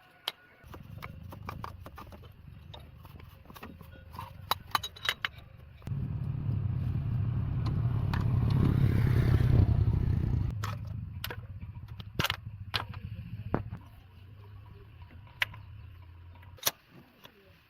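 A low motor hum that starts about a second in, swells to its loudest in the middle, then eases and cuts off suddenly near the end, with scattered metallic clinks and clatter throughout.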